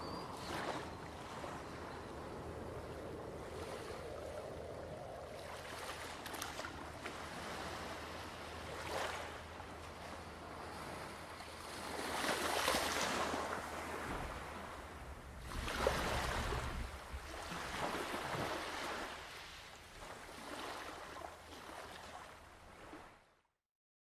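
Sea waves washing in, in several swelling rushes over a low steady rumble, fading out near the end.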